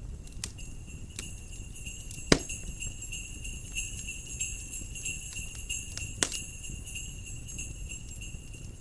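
Small jingle bells ringing steadily over a crackling wood fire, with a low rumble of wind underneath. A loud pop from the fire about two seconds in and another about six seconds in.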